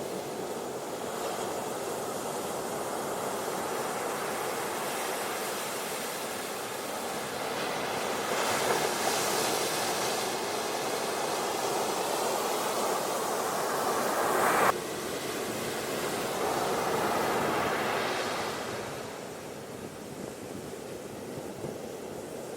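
Ocean waves washing onto a beach, a steady rushing surf that swells and recedes in slow surges. One surge ends abruptly a little past the middle.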